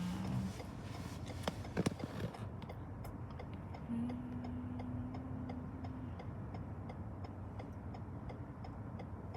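Car turn-signal indicator clicking at an even pace, about three ticks a second, over the low rumble inside the car. A steady low tone sounds for about two seconds in the middle.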